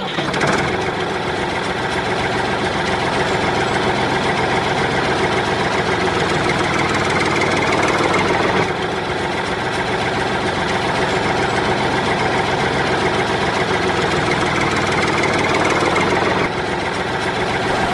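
A small engine running steadily with a fast, even firing beat.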